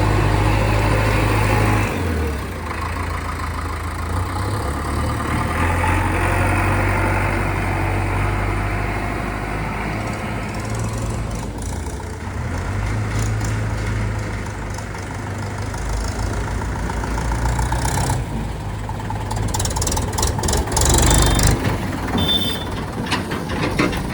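JCB 3DX backhoe loader's diesel engine running under working load, its speed rising and falling every few seconds. A burst of clattering knocks comes near the end.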